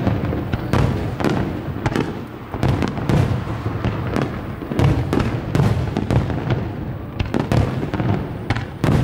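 Aerial fireworks shells bursting in quick succession, about two to three sharp bangs a second, with low rumbling between them.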